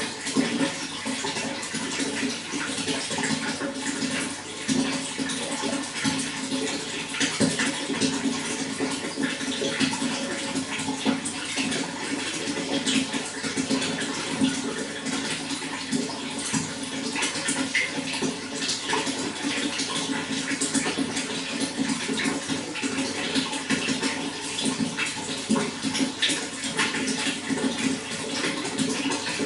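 Running water flowing steadily, a continuous rush with many small splashes and gurgles.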